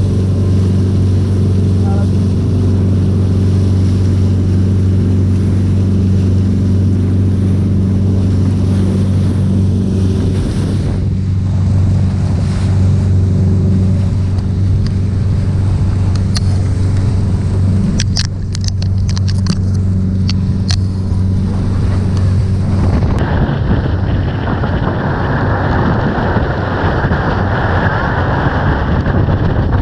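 A tour boat's engine running at a steady pitch while under way, with a few sharp clicks about two-thirds of the way through. About 23 seconds in, the engine sound gives way to a loud, steady rush of wind on the microphone.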